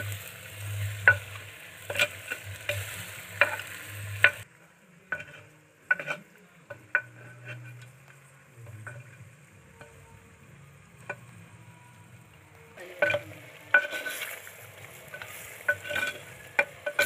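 Metal ladle stirring chicken pieces frying in hot oil in a clay pot: a steady sizzle with sharp knocks and scrapes of the ladle against the pot. The stirring and knocking ease off after about four seconds, leaving a quieter sizzle, and pick up again near the end. The pieces are at the stage of being fried in oil for a few minutes, half-cooked, before the ground masala goes in.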